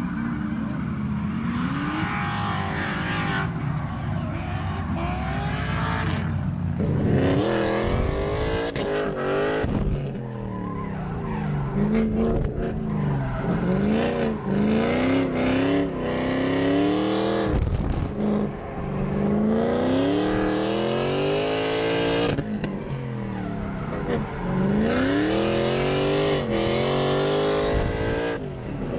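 Drift cars on track: engines revving up and falling back over and over, with tyres squealing and skidding.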